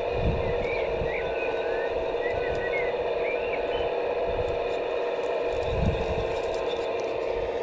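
Steady electric whine of a radio-controlled construction model's motor and hydraulic pump running. Short bird chirps sound over it, with two brief low rumbles, one just after the start and one about six seconds in.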